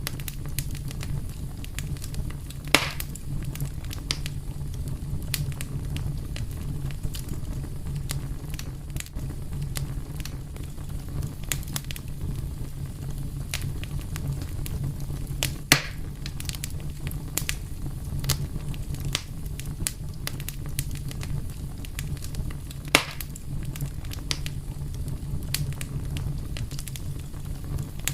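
Fire crackling, with many small snaps and ticks over a steady low rumble, and a few louder pops.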